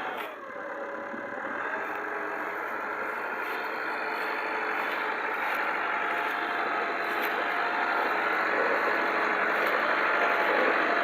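Tractor engine running steadily, growing gradually louder, with a short falling tone about a second in.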